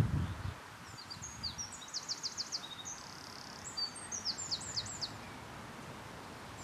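A songbird singing: two quick phrases of rapid, high, downward-sweeping notes, the first about a second in and the second near four seconds, over a steady outdoor background hiss. A low thump right at the start.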